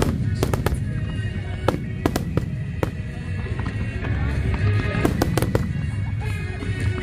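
Fireworks display: a rapid, irregular series of sharp shell bursts and crackles over a continuous low rumble, with the show's music playing through it.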